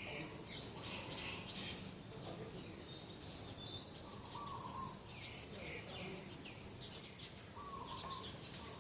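Several birds chirping and calling, with quick high chirps throughout and a short, lower call that comes back twice.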